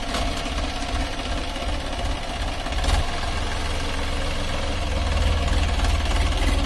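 Massey Ferguson 5245 DI tractor's three-cylinder diesel engine running with a steady low, rhythmic knock. It gets louder from about three seconds in.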